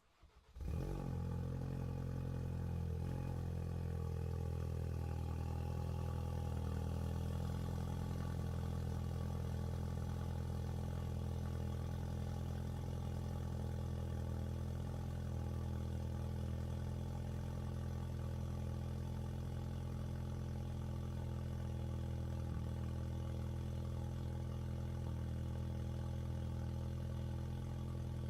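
Ford Focus RS's turbocharged 2.3-litre four-cylinder starting up about half a second in, then idling steadily through a 3.5-inch turbo-back exhaust with a Vibrant muffler.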